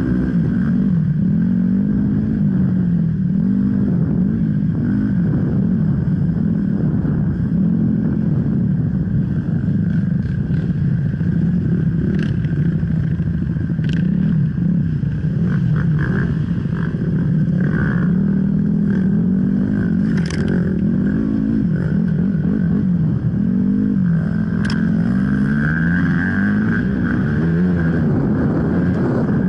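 Enduro dirt bike engine revving up and down continuously as it is ridden, its pitch rising and dropping every second or two, with a few sharp clicks along the way.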